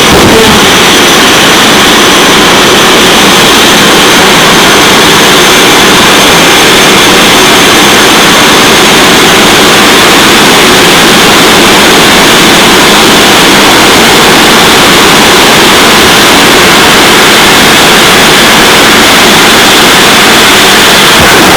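Jet drag racing car's jet engine running, a very loud, steady rush of noise with a faint high whine that fades about halfway through.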